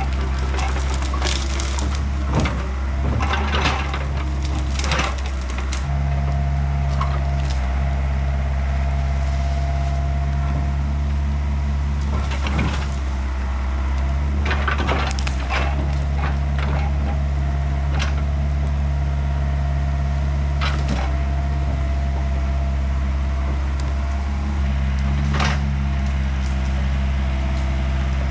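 Diesel excavator engine running steadily under hydraulic load, with a whine that comes and goes. Over it, wood cracks and splinters several times as the machine breaks up the fallen hickory tree.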